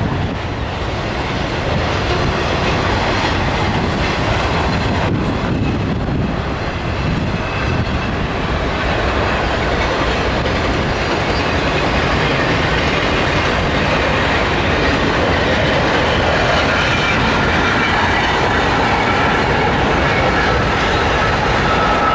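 Double-stack intermodal freight train rolling past: a steady rumble and clatter of steel wheels on the rails. A faint high-pitched wheel squeal joins in about halfway through.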